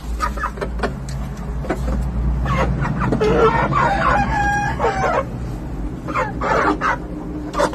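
Peruvian rooster crowing once, a long call starting about two and a half seconds in, among short clucks and calls from other chickens, over a steady low rumble.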